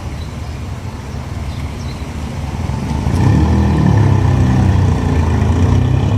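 A car engine running, its low rumble growing much louder about halfway through as the vehicle comes close.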